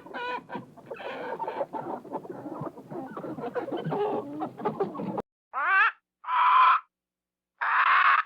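Chickens clucking, many calls overlapping, cutting off abruptly about five seconds in. Three separate short animal calls follow.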